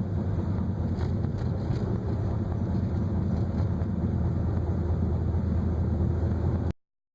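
Steady low rumbling noise that cuts off abruptly near the end.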